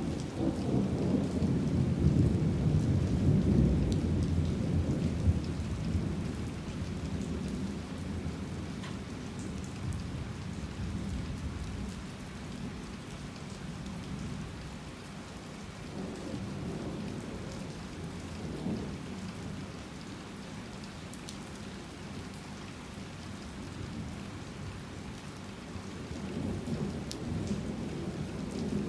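Heavy rain falling steadily in a thunderstorm, with a long low rumble of thunder that swells at the start and fades over the first several seconds, and another rumble building near the end.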